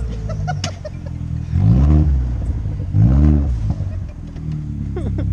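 Car engine revved twice, about a second and a half apart, each rev rising and dropping back quickly.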